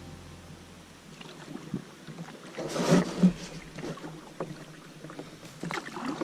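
Canoe paddling: irregular paddle splashes and water swirling. There are a few knocks, and the loudest splash comes about three seconds in.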